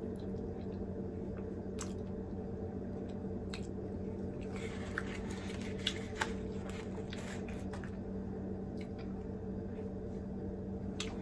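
Mouth sounds of someone biting into and chewing a wafer ice-cream-cone snack: soft wet clicks and a short run of crunching about halfway through. A steady low hum runs underneath.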